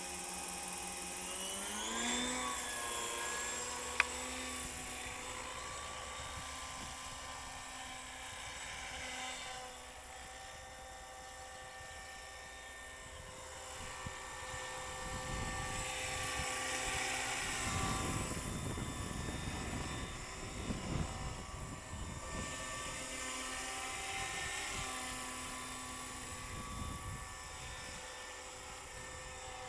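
Radio-controlled model helicopter (Hurricane 550 mechanics under an Agusta A109 scale body) spooling up: a whine that rises in pitch about two seconds in, then holds steady at speed. Swells of rushing rotor noise come and go in the middle, and there is one sharp click early on.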